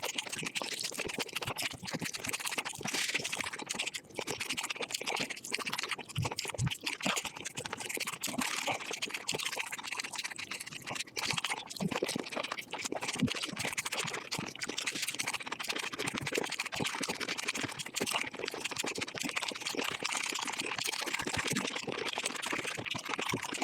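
Close-miked eating sounds of chicken being bitten and chewed, sped up five times into a dense, fast, continuous crackle of small clicks.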